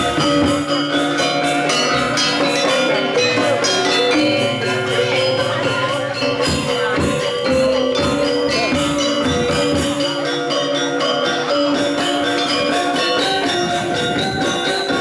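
Balinese gamelan music: many bronze metallophones and gongs struck in fast interlocking patterns, loud and ringing.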